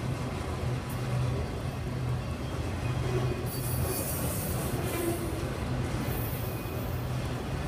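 Union Pacific freight train of autorack cars rolling past, a steady rumble of steel wheels on the rails, with brief high hissing about halfway through and again near the end.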